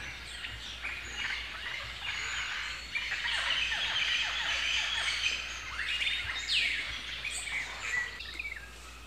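Many birds chirping and calling at once, a busy chorus of short chirps and quick downward-sliding notes that thins out and stops shortly before the end.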